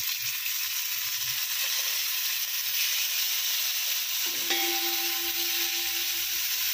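Marinated crabs sizzling as they fry in hot oil on an iron tawa, a steady hiss. A steady low hum joins about four seconds in.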